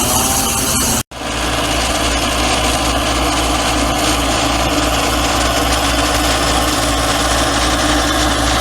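Engine of heavy construction equipment running steadily at idle, a constant low hum. The sound cuts out for an instant about a second in, then resumes.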